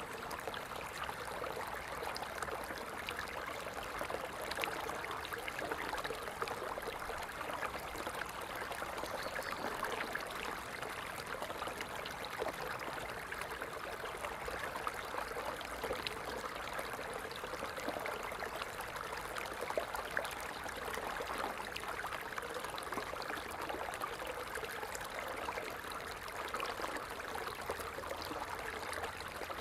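Water falling and splashing steadily, a continuous stream with fine splashy ticks.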